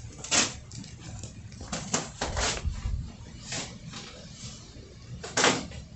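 A few brief clacks and rustles of small items being handled, the loudest near the end.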